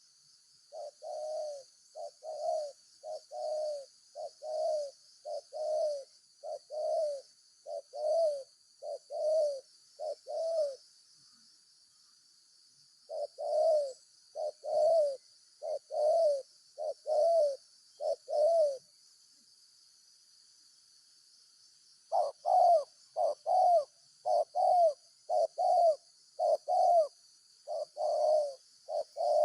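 Spotted dove (tekukur) cooing in a long run of repeated low notes, about one and a half a second, in three bouts with short pauses; the last bout is louder. A steady high insect hiss runs underneath.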